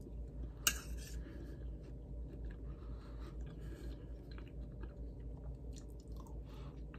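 A person chewing a mouthful of roasted broccoli, then taking a forkful of rice, with a sharp click a little under a second in and faint small clicks afterwards. A steady low hum lies underneath.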